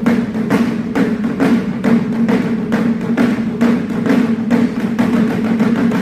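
Wadaiko taiko drums struck in an even, driving rhythm of about two to three strikes a second, over a sustained low tone.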